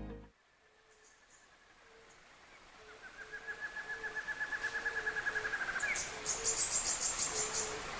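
Birds calling: a short low note repeats about twice a second, a fast trill begins about three seconds in, and a higher rapid trill comes near the end. The background grows louder throughout.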